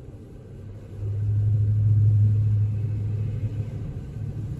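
Low road rumble inside a moving car, swelling about a second in and easing off again after a couple of seconds.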